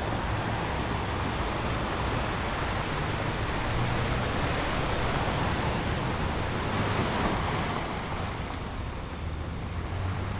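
Ocean surf: waves washing in and drawing back, swelling to its loudest around the middle and easing off toward the end.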